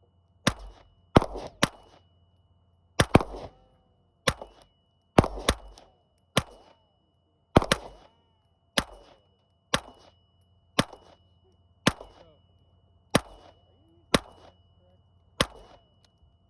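HK416-style .22 LR rifle firing Sellier & Bellot 40-grain Club rounds: around sixteen single sharp shots at roughly one a second, some in quick pairs, each with a short echo.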